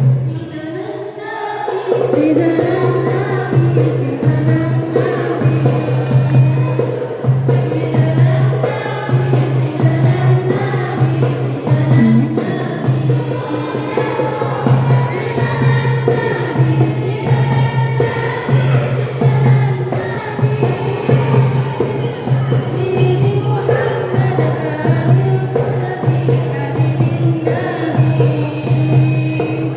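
A group of voices singing a sholawat, an Islamic devotional song, with a regular beat of hand percussion, over a steady low hum.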